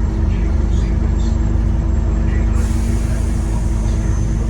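Scania N230UD Omnicity double-deck bus heard from on board, its diesel engine running with a steady low drone. A rushing hiss of higher noise joins about halfway through.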